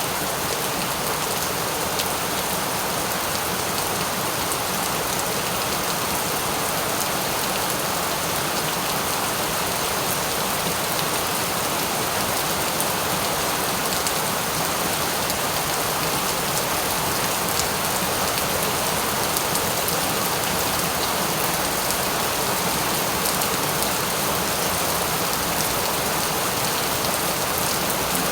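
Steady rain falling and pattering on surfaces, an even, unbroken hiss with faint scattered drop ticks.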